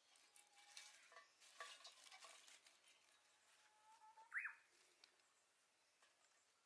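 Faint clicks and rustles of handling, then a short rising chirp about four seconds in.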